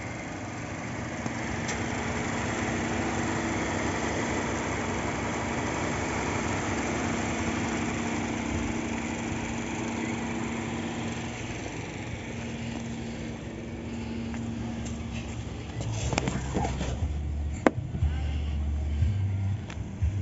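Mazda 3's Skyactiv-G four-cylinder petrol engine idling steadily, heard with the bonnet open, with a steady low hum over the running. After about sixteen seconds the engine sound drops lower and several knocks and one sharp click come in.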